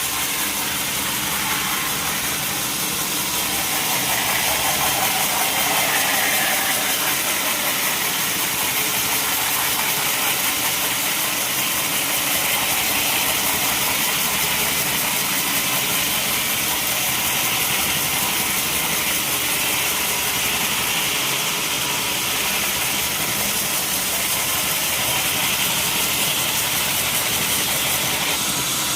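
Sawmill machinery running steadily, a continuous mechanical drone with a hissing edge.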